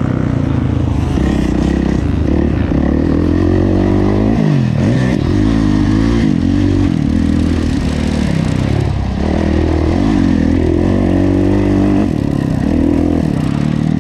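Kawasaki KX450F's four-stroke single-cylinder motocross engine under race load, its pitch rising and falling repeatedly as the throttle is rolled on and off through gear changes, with a sharp drop and climb about four seconds in.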